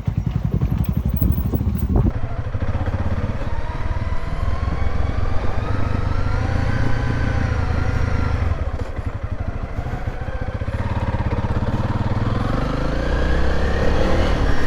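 Motorcycle engine running under the rider on a rough dirt road, its pitch rising and falling with the throttle. There is a sharp knock about two seconds in.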